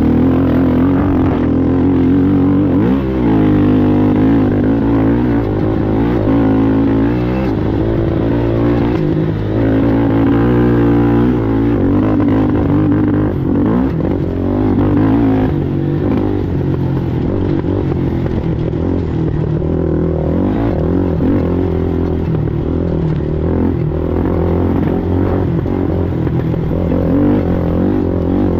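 A racing ATV's engine running hard, its pitch rising and falling repeatedly as the throttle opens and closes, with steady rattling over it.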